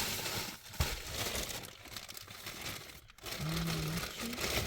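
Crinkling and rustling of packaging being handled, with a sharp click under a second in and a short low hum about three and a half seconds in.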